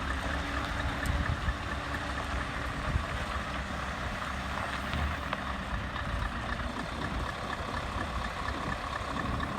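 Scania R580 lorry's V8 diesel engine running steadily, a low even rumble with road and running noise.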